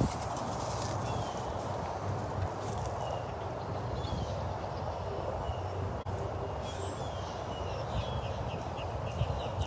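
Steady wind noise and low rumble on the microphone, with a small bird chirping now and then and a quick run of chirps near the end.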